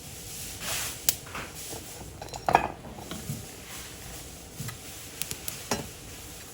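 Cookware and utensils clinking and clattering during cooking, a handful of sharp clinks with the loudest about two and a half seconds in.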